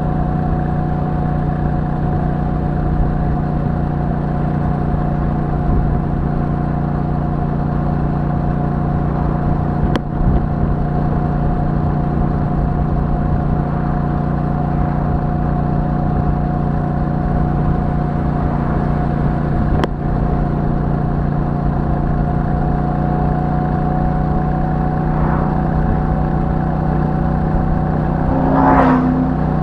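Royal Enfield Super Meteor 650's 648 cc parallel-twin engine running at a steady pace through its stock exhaust, heard from the moving bike. Two brief clicks come about ten seconds apart, and a short sound rising in pitch comes near the end.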